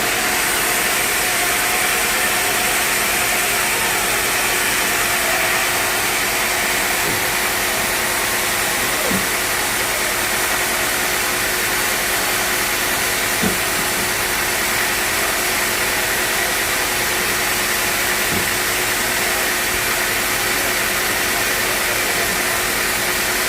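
Sawmill machinery running steadily, a constant motor hum under a broad hiss, with a few faint knocks.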